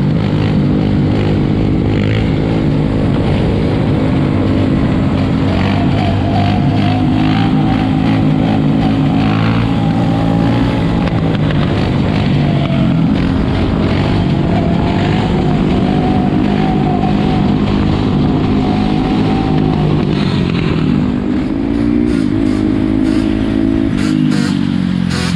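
Four-wheeler (ATV) engines running close by, holding a steady pitch, then revving up and down near the end.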